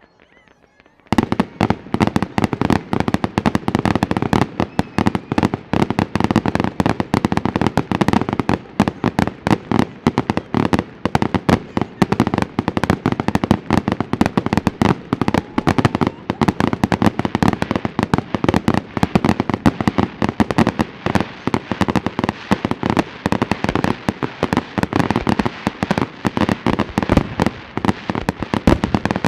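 Starmine fireworks barrage: a rapid, continuous volley of shells launching and bursting, with dense overlapping bangs and crackles that start about a second in and keep going without a break.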